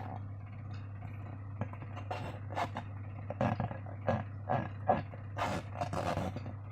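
Slime being squeezed and squished by hand, giving irregular wet squelches and crackles that come more often in the second half.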